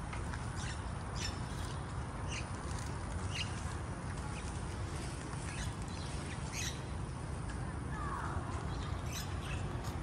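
Birds chirping, short high calls every second or so, with one lower falling call about eight seconds in, over a steady low outdoor rumble.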